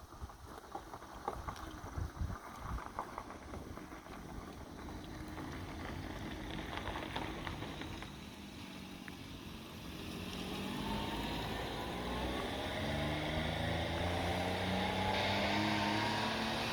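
A motor engine, growing louder from about ten seconds in, its pitch climbing in steps as it speeds up. Scattered light clicks and outdoor noise come before it.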